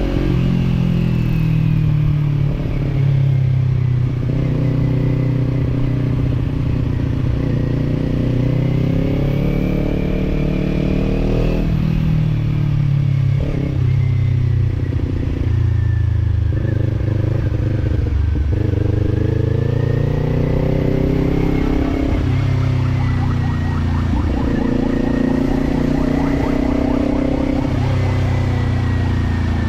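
Kawasaki Z-series parallel-twin motorcycle engine under way, its note rising and falling repeatedly as the throttle and gears are worked, with sharp drops in pitch a little before halfway and again after it. Wind and road noise lie under it.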